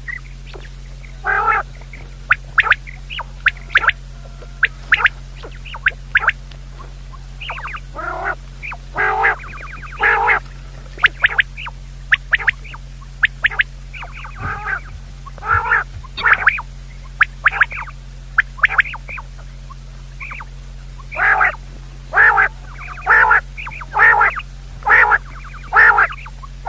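Short, harsh bird calls repeated singly and in small clusters about every second, over a steady low hum.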